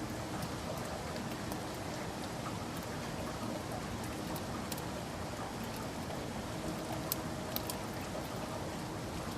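Steady rainfall, with a few individual drops striking close by as sharp ticks, most of them in the second half.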